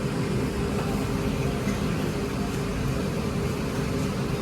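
A steady low hum and rumble of mechanical background noise with a faint constant tone, unbroken throughout.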